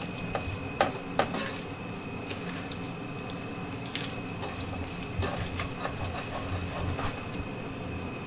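Onions and chicken frying in butter and flour, sizzling steadily while a wooden spatula stirs and scrapes the pot, with two sharp knocks of the spatula about a second in. The flour is being cooked until no raw powder or lumps remain, the roux stage of a cream stew.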